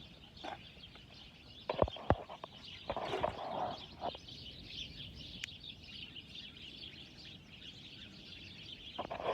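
A flock of small birds chirping and chattering all at once, without a break. Two sharp knocks come about two seconds in.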